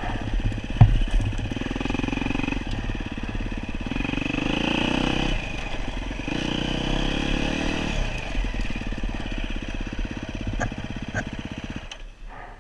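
Dirt bike engine running and revving up and down several times, then stopping abruptly near the end.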